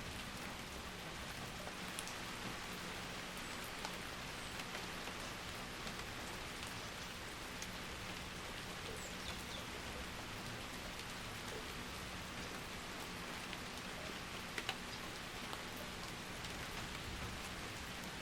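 Steady winter rain falling, with scattered individual drops tapping sharply over the even patter and a pair of louder drops about three-quarters of the way through.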